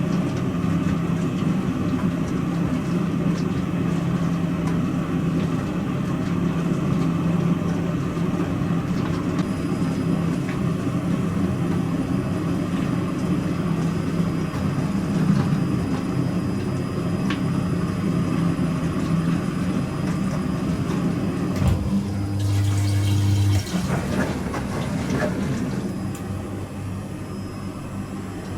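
Pro Action PRSLG96W slimline dishwasher running a wash program: a steady motor hum with water swishing and spraying inside. About three quarters of the way through, the sound changes briefly to a deeper, louder hum and then a different swishing, as the machine switches stage. It is a little quieter near the end.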